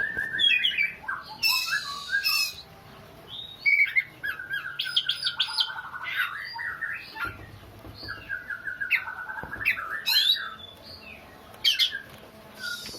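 Oriental magpie-robin singing: repeated long, wavering, pulsing notes at much the same pitch, broken by harsh squawky notes and brief high trills. This is the 'sobbing' song that sounds like a child crying.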